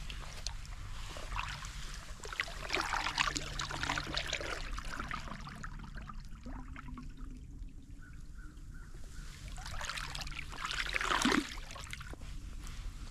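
Kayak paddle dipping and pulling through creek water, with water trickling and dripping off the blades. It comes in two spells of strokes, the second cutting off sharply near the end.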